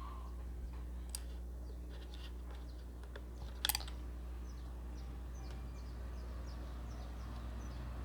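Light clicks and ticks from small parts of a steam iron being handled during disassembly, with one sharper click a little over three and a half seconds in, over a steady low hum.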